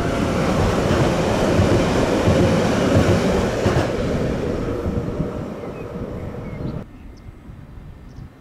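A train passing close by with a loud rumble of wheels on rail. The noise peaks about two to three seconds in, then fades, and cuts off suddenly near the end.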